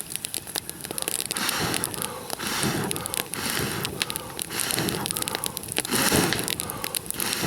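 A person blowing on a small campfire of dry twigs in repeated long breaths, about one a second, to fan the flames, while the burning wood crackles and snaps.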